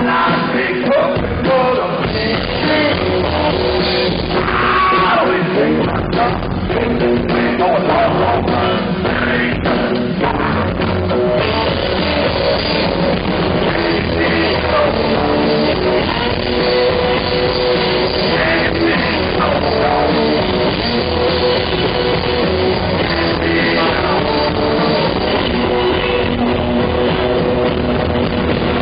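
Live blues-rock band on guitar and drum kit with singing, mostly in the first ten seconds, then a repeated guitar riff over the drums.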